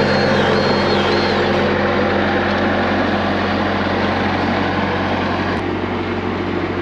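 Diesel skid steer engine running steadily. In the first couple of seconds a high tone rises and falls several times over it, and a single click comes near the end.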